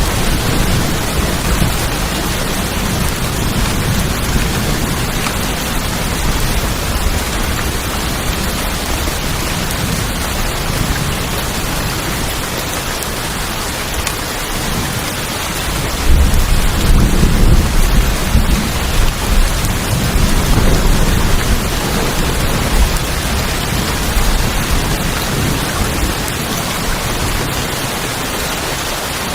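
Steady rain on a tin roof with low rolling thunder, which swells to its loudest a little past halfway through.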